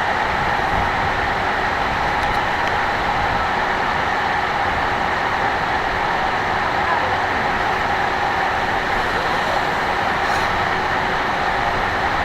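FPV drone's motors and propellers running steadily in flight: an even rushing noise with a faint steady whine.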